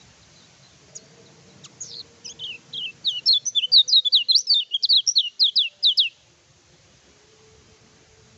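Kecial kuning (a white-eye) singing: a few scattered high notes, then a fast run of loud, downward-sweeping chirps, about five a second for some three seconds, that stops abruptly.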